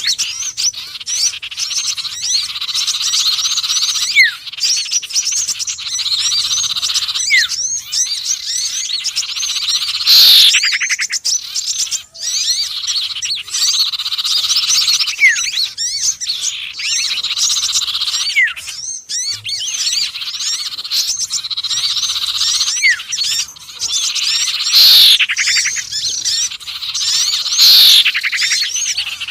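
Bird-lure recording mixing the calls of sirtu, konin and sepah raja (minivet): a dense, unbroken chatter of high, quick chirps from small songbirds. Loud downward-sweeping calls return every few seconds, about six times.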